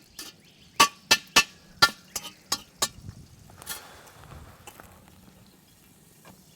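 Metal tools clinking and knocking against a camp oven lid as the hot coals are cleared off it, about eight sharp knocks in quick succession in the first three seconds, then fainter.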